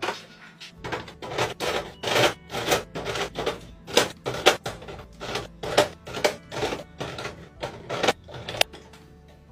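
Quick run of clicks, taps and knocks from containers and packages being handled and set down while a refrigerator is arranged, about three or four a second.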